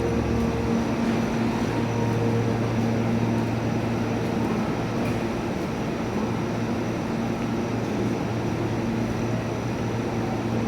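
Electric commuter train at a station platform, a steady hum of running equipment with a few held tones.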